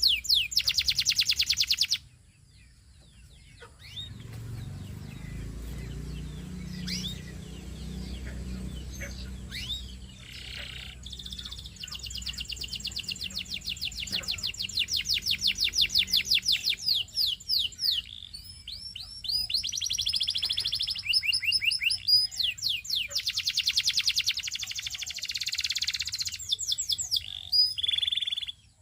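Canary singing in long rolling trills of rapidly repeated high notes, with a gap of a few seconds near the start before the song picks up again and runs on in tours of changing speed.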